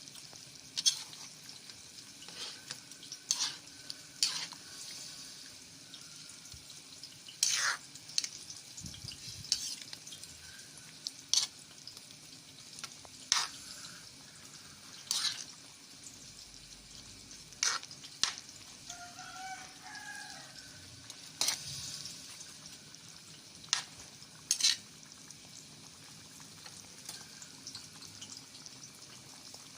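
Chicken frying in a pan with a steady sizzle, while a spatula stirs and knocks sharply against the pan every second or two.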